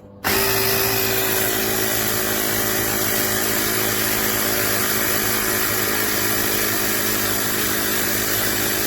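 CYCPLUS 150 PSI cordless mini air compressor switching on about a quarter second in and then running steadily, a loud even motor buzz, as it pumps air toward a preset 2.5 bar.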